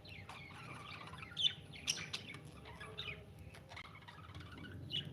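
Quiet, scattered chirps and short squawks from pet cockatiels, with a few sharp clicks in the middle.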